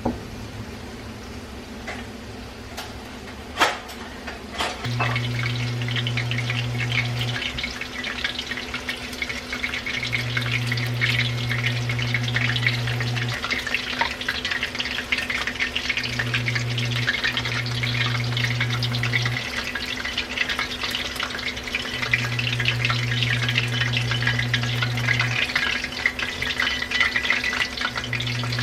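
Pieces of boneless chicken thigh deep-frying in hot oil in a wok: a dense crackling sizzle that starts about five seconds in, after a few sharp clicks, and stays busy to the end.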